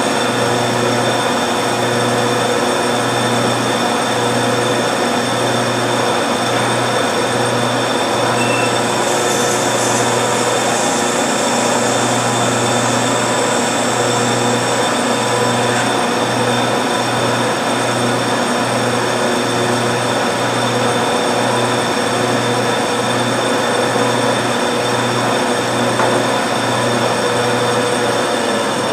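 1952 Wade 7 turret lathe running steadily: its motor and gearing give several steady whining tones over a low hum that pulses about once a second. A brief higher hiss comes about ten seconds in.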